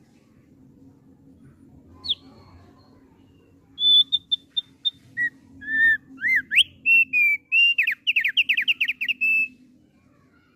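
Thick-billed heleia singing: a single whistled note, then a loud phrase of clear, sweet whistles, some sliding up or down, ending in a quick run of rapid notes. A faint steady low hum runs underneath.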